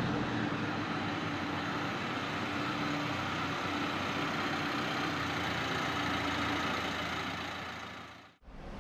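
Nissan Juke's 1.5 dCi turbodiesel four-cylinder engine idling steadily, fading out near the end.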